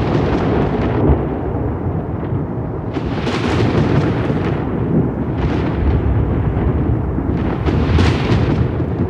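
Thunder rumbling continuously, with sharper crackling peals breaking out about three seconds in, again around five and a half seconds, and most strongly near eight seconds.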